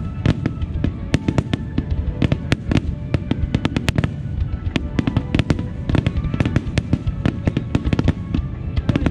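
Starmine fireworks barrage: a dense, rapid run of aerial shell bursts and crackles, several strikes a second, with music playing underneath.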